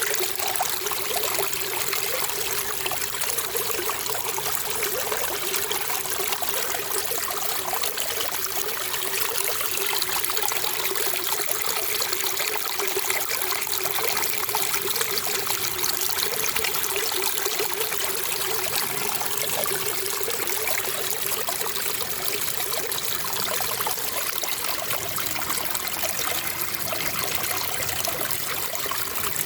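Running water trickling steadily, an even, unbroken splashing hiss that sits mostly high, with little low rumble.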